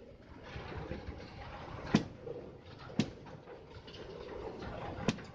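Rail tank wagons being shunted at a very slow pace, with a steady low rumble and three sharp knocks about two, three and five seconds in.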